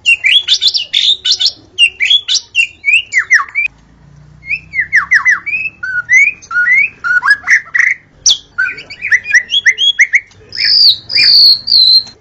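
White-rumped shama (murai batu) singing a fast, varied song of sweeping whistled notes. It breaks off briefly about four seconds in and ends on a longer held high whistle.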